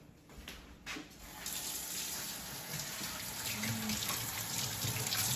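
Sink tap turned on about a second and a half in, then water running steadily from the faucet into the sink for hand washing.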